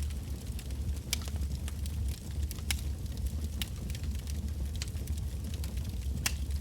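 Bonfire of firewood logs crackling over a steady low rumble, with irregular sharp pops, four of them loud.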